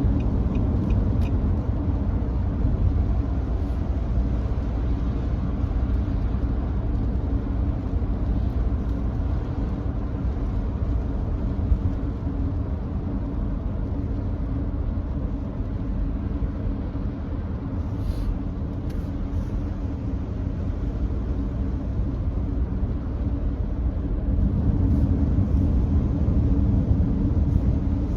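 Steady road rumble and tyre noise of a Nissan Note e-POWER cruising at constant speed on a rain-wet expressway, with a brief crackle about two-thirds of the way through.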